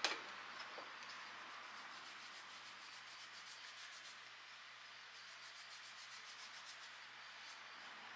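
A sharp click, then faint rhythmic rubbing strokes, several a second, like hand sanding.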